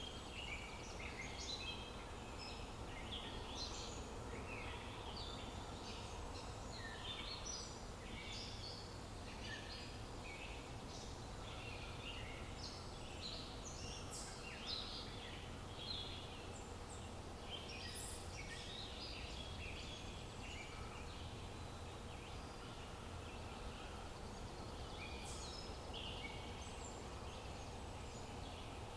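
Several small birds chirping in a dense, continuous chorus of short, high calls over a steady low outdoor background.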